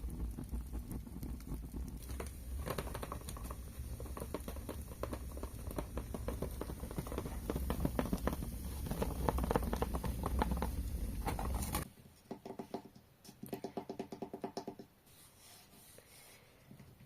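Close-miked ASMR crackling and pattering over a low rumble, which stops abruptly after about twelve seconds. Then come two short runs of rapid tapping on a hard object.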